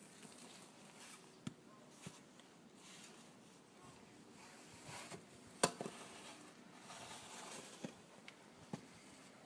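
Faint, scattered scrapes and knocks of a child's snow shovel working in snow: a few short strokes, the sharpest just past halfway, over a soft hiss.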